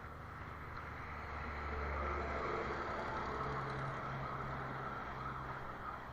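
A motor vehicle's engine runs steadily with a low hum, stepping up in pitch about three and a half seconds in, over a constant rushing noise of movement.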